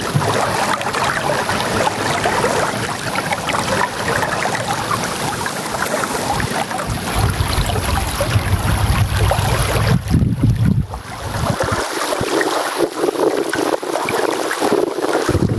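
River water rushing and splashing close to the microphone. A low rumble of wind on the microphone builds mid-way, then drops away after about twelve seconds.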